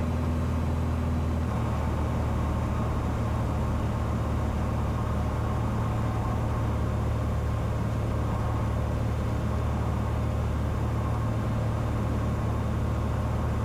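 Cessna 182's six-cylinder piston engine and propeller droning steadily in cruise, heard from inside the cabin. About a second and a half in, the tone shifts slightly as one of its higher notes drops out.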